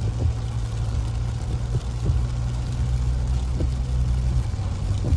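A steady low engine rumble with an even hiss over it.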